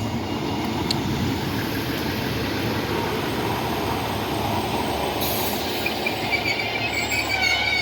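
Diesel multiple-unit passenger train running into the station with a steady rumble, then its brakes squealing in thin high tones over the last couple of seconds as it slows to stop.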